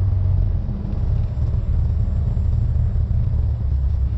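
Cessna 172N's four-cylinder Lycoming engine and propeller running with a steady, loud low drone, heard inside the cabin.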